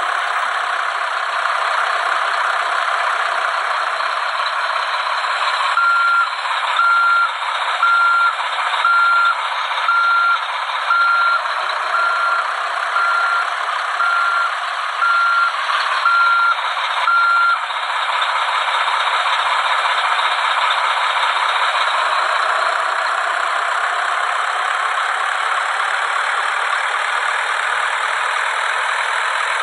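A truck's reversing alarm beeps about once a second, roughly a dozen times, starting about six seconds in and stopping after about twelve seconds. Steady truck engine noise runs underneath.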